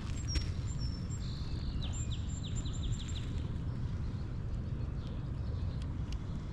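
A songbird singing in the first half: a few high whistled notes, then a quick run of downward-sweeping chirps. Under it a steady low rumble of wind on the microphone.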